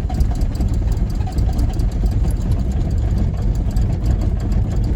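The 1981 Isuzu Pup's 2.2 L C223 diesel engine being cranked by the starter, turning over steadily but not yet running. It is a hard cold start after the glow plugs were cycled, which the owner blames partly on a leaking cold start device on the injection pump.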